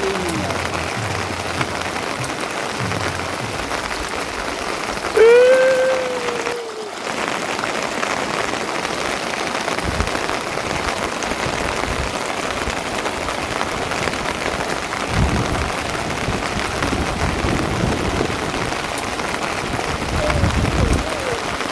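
Steady rain falling. About five seconds in, a single drawn-out call, a pitched sound with a rising then falling tone lasting just over a second, stands out as the loudest sound.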